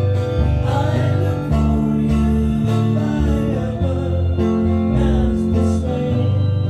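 Country music on acoustic guitar: steady strumming over held bass notes, with a bending melody line above.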